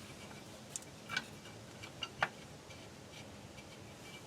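A few light, sharp metal clicks and taps, scattered and uneven, the loudest about two seconds in: bolts and tools being handled while the brake backing-plate bolts get anti-seize and are set in place.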